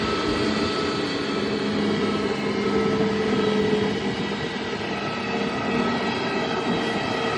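Airliner engines running: a steady, even wash of engine noise with several held tones.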